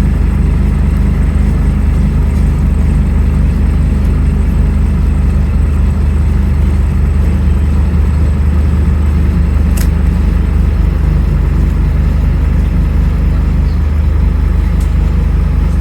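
Scania N310UA articulated city bus, its diesel engine running steadily with a low drone, with a single sharp click about ten seconds in.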